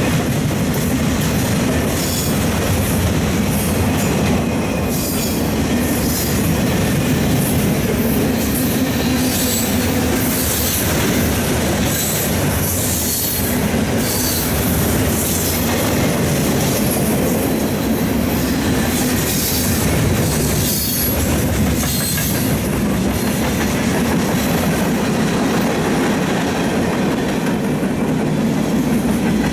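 Train cars rolling past: a steady wheel rumble with clatter over the rail joints, and repeated short high wheel squeals through most of the passage.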